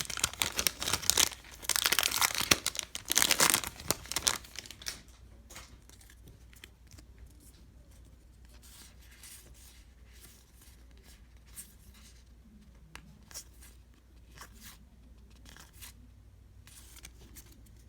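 Baseball card pack wrapper being ripped open and crinkled, loud for the first four or five seconds; after that only faint scattered clicks.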